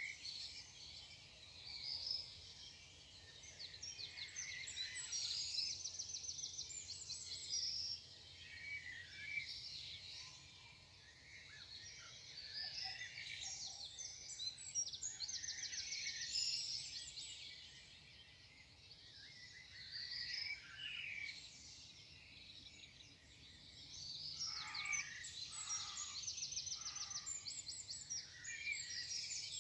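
Morning chorus of several songbirds singing over each other, with chirps, whistled phrases and fast high trills that come back again and again.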